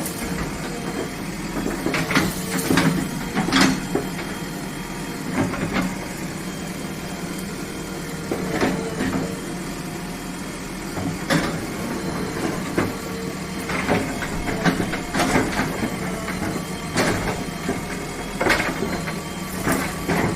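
Excavator diesel engine running steadily, with irregular sharp cracks and knocks every second or two as it clears bushes.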